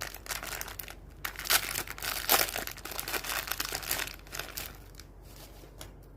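Crinkling, rustling handling noise in irregular bursts for about five seconds, with a few light clicks near the end.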